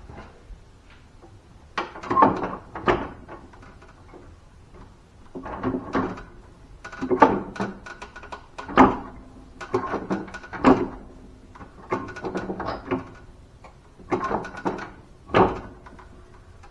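Tools and parts being handled and put away, in about eight irregular bursts of clattering and knocking with short pauses between.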